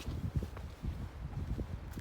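A hiker's footsteps scrambling over rock, irregular low thumps with wind rumbling on the microphone.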